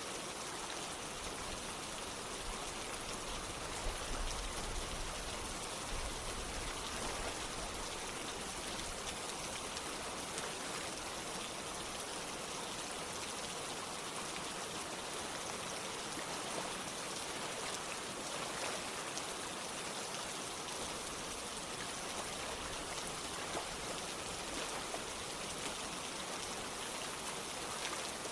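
Steady rain falling, with patter and drips, mixed with running water like a stream or water wall.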